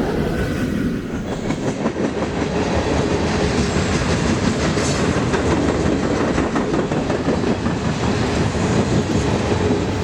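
Cars of a BNSF mixed-freight manifest train rolling past at speed: a steady rattle of steel wheels on the rails with a rapid run of clicks.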